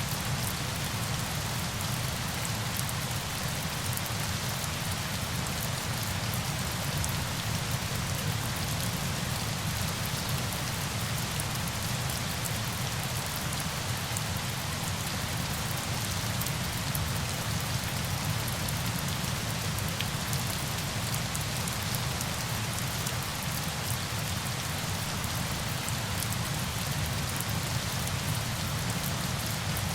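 Steady rain falling on a surface: an even, unbroken hiss with a fine patter of drops.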